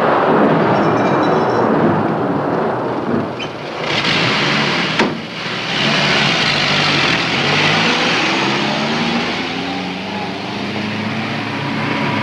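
The rushing noise of an explosion carries on for the first few seconds, with a sharp crack about five seconds in. Then a vintage car's engine runs and revs up, its pitch rising, as the car pulls away.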